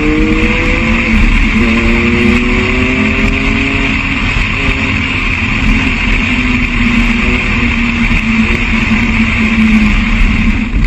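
A car driving at speed: loud, steady wind and road noise with an engine note that rises slowly, drops back and rises again during the first few seconds.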